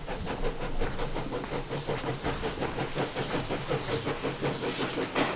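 Train running with a fast, even, rhythmic clatter over a hiss.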